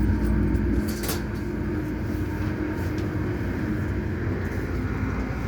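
An Airport Express A-Train running at speed, heard from inside the cabin: a steady rumble of wheels on rail with a held motor hum, and a couple of faint clicks.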